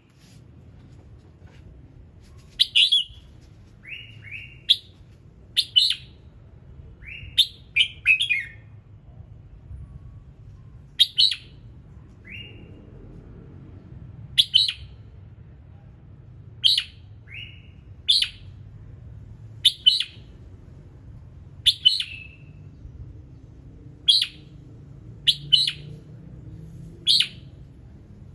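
Red-whiskered bulbul singing: short, sharp whistled phrases repeated every second or two, with a few lower rising notes between them.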